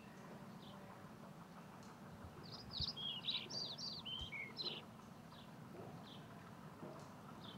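A small songbird singing a quick run of high chirps, starting about two and a half seconds in and lasting about two seconds, with a few single chirps before and after, over a faint steady hum.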